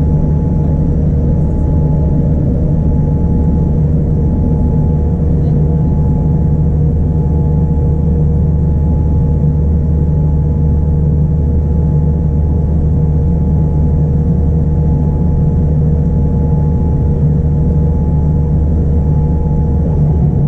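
Steady cabin noise inside a Boeing 787-9: a loud, even rumble of the engines and rushing air with two steady humming tones over it, heard from a seat over the wing.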